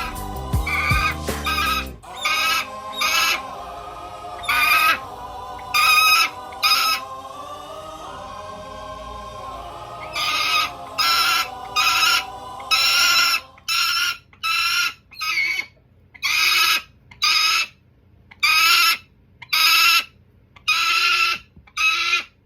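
Hooded falcon calling again and again, about eighteen short loud calls in runs, each under half a second. Background music plays beneath the first half and stops about halfway through.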